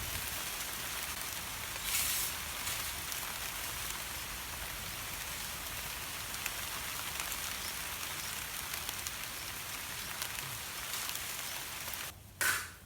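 Steady wind hiss, wind rushing through foliage with a low rumble on the microphone, swelling briefly about two seconds in. A short sharp sound comes near the end.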